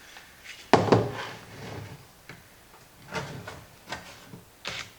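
A few knocks and clunks as the compost tumbler's lid ring and tools are handled. The loudest is a double knock about a second in, with lighter ones near the end.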